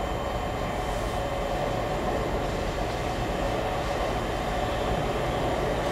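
Southeastern Electrostar electric multiple unit running into the platform. Its wheels and running gear on the rails make a steady rumble.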